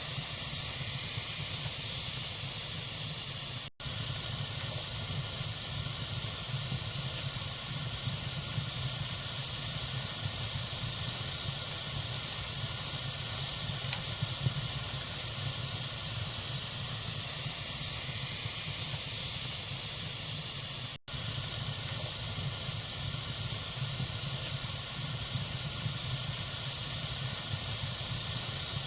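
Fireplace wood fire burning with a steady hiss and a few faint crackles. The sound drops out for an instant twice, about 4 seconds in and about 21 seconds in.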